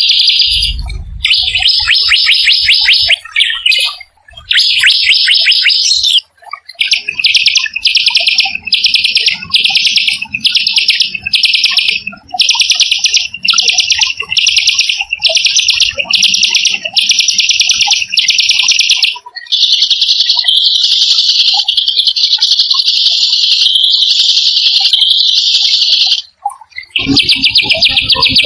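A small songbird singing rough, rapid rolling trills: short rolls repeated about twice a second, then one long unbroken roll of several seconds, with brief pauses between phrases.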